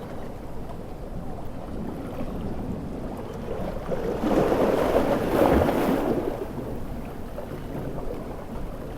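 Ocean surf with a steady wash of water; about four seconds in, a large wave swells and breaks, then dies back down.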